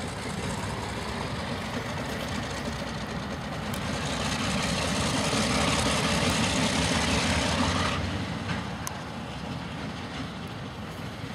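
Freight train moving through a rail yard: a steady rumble and rolling wheel noise that grows louder about four seconds in and drops back sharply about eight seconds in.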